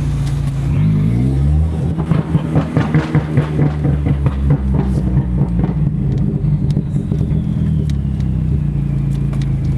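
Car engine running, its pitch rising as it revs up about a second in, then pulsing unevenly for a few seconds before settling back to a steady run.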